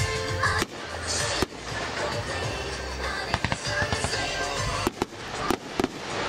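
Fireworks going off at a display: sharp bangs and crackling pops, a few near the start and a cluster near the end.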